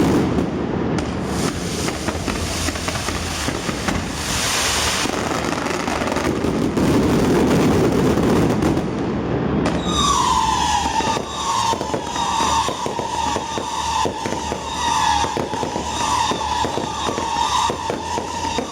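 Fireworks going off in a dense, continuous barrage of bangs and crackling. About ten seconds in, a chorus of shrill whistling fireworks joins in, wavering around one pitch over the continuing crackle.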